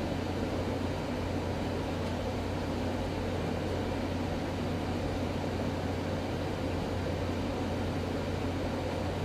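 Revlon One-Step hair dryer brush running steadily on its low setting: the whir of its motor and fan and the rush of air, with a low hum underneath.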